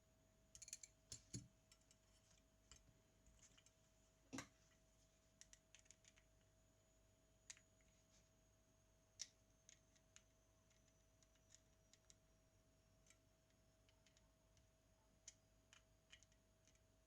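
Faint, scattered small clicks and taps, irregular and of varying loudness, typical of small tools and parts being handled while working on a Zenit TTL camera, with one sharper click about four seconds in. A faint steady hum runs underneath.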